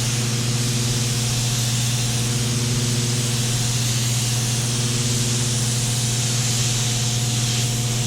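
Air-pressure primer spray gun hissing steadily as primer is sprayed onto a repaired fender, over a steady low machine hum. The hiss eases briefly near the end.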